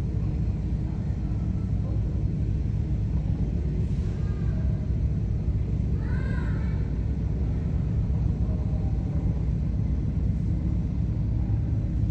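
Twin radial piston engines of a C-47 Skytrain running steadily at a warmup idle, a dense, even low rumble.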